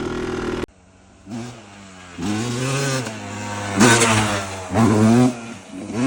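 Single-cylinder two-stroke engine of a 2003 Yamaha YZ250 dirt bike. A steady engine note cuts off abruptly under a second in, then the engine revs up and back down about five times in a row.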